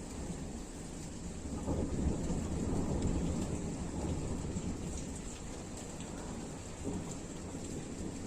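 Thunder rumbling, swelling about a second and a half in and slowly dying away, over a steady rain shower.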